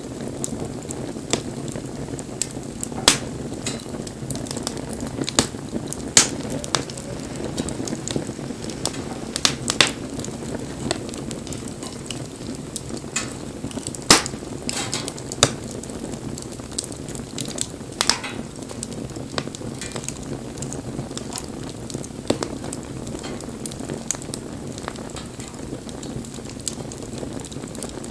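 Wood bonfire burning: a steady low rush of flame with irregular sharp crackles, and a few louder snaps scattered through.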